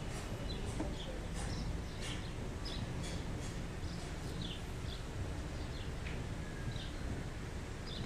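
Small birds chirping outside, with many short high chirps scattered throughout, over a steady low hum.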